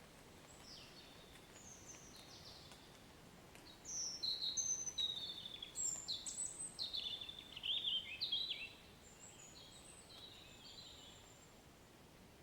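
Steady soft rain hiss with a songbird singing quick, falling whistled phrases; the birdsong swells loudest from about four to nine seconds in, then fades to a few faint high notes.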